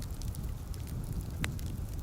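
Wood fire crackling in a fireplace: a stream of small pops and ticks over a low steady rumble, with one sharper pop about one and a half seconds in.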